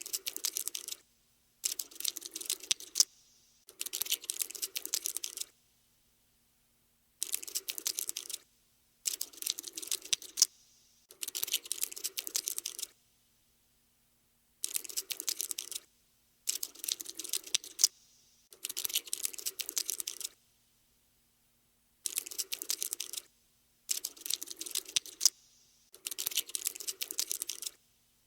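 Cockroach scuttling sound effect: bursts of rapid, dry clicking, like tiny legs skittering. Each burst lasts a second or two and is followed by a short silence, about a dozen in all.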